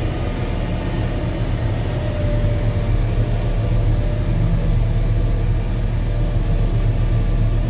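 Volvo L70H wheel loader's diesel engine running with its snow blower, heard from inside the cab: a steady low drone that gets a little louder about two seconds in.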